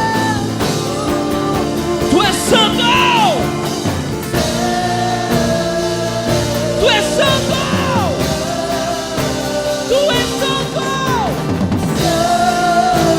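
Live worship band playing a slow song under sustained chords, with a voice holding long notes and sliding through melodic runs without clear words; light drums underneath.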